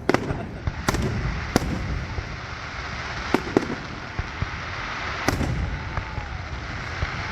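Fireworks display: a steady rumble and crackle of many shells bursting, broken by sharp bangs at irregular intervals, about six in all.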